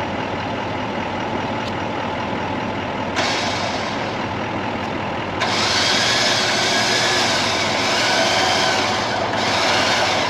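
Four-wheel-drive vehicle running, with a louder hissing whirr joining about three seconds in and growing louder from about five seconds in, then easing off near the end.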